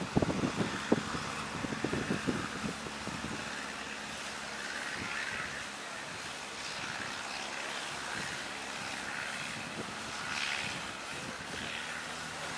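Boat engine running with a steady hum under the rush of waves and wind noise on the microphone. Gusty thumps come in the first three seconds, and the rush swells twice, about five and ten seconds in.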